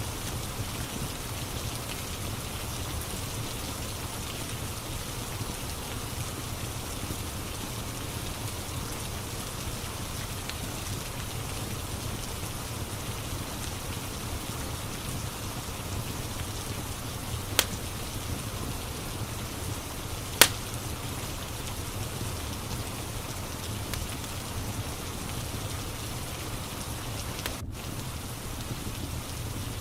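Steady rain falling, with a wood fire crackling in the background: two sharp pops stand out, about halfway through and three seconds later.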